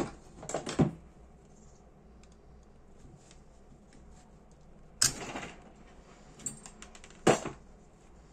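Sharp clicks and taps of small metal parts and tools being handled during lighter disassembly: four loud knocks, at the start, just under a second in, about five seconds in and about seven seconds in, with faint ticks between.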